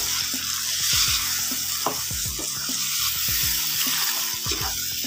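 Chickpeas frying in a spiced onion-tomato masala in a non-stick wok, sizzling steadily, as a wooden spoon stirs and scrapes them, with a short knock from the spoon every second or so.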